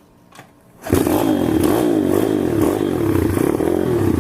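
SSR TR160 motorcycle's single-cylinder four-stroke engine starting from cold about a second in, then running with its speed rising and falling as the throttle is blipped.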